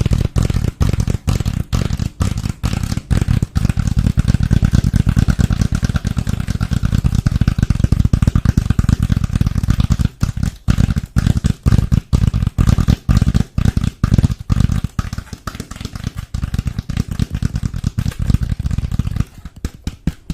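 Fast, dense tapping on a surface close to the microphone, a rapid run of knocks that gets quieter about a second before the end.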